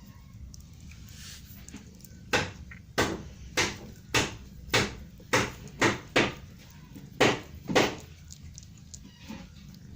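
A series of about ten sharp, loud knocks, roughly two a second, with a short pause before the last two, each dying away quickly.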